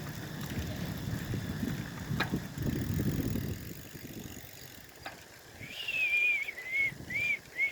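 Wind buffeting the microphone and the rumble of a bicycle riding over a bumpy road, with two sharp clicks. Near the end a high, wavering squeal comes in several short pieces.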